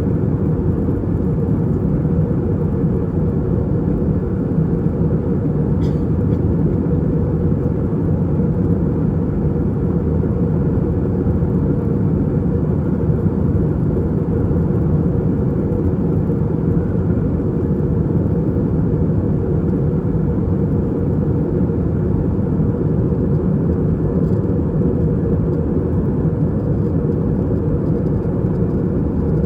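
Steady cabin noise inside an Airbus A320-232 in flight after take-off: the low, even roar of its IAE V2500 engines and the airflow. A faint click comes about six seconds in.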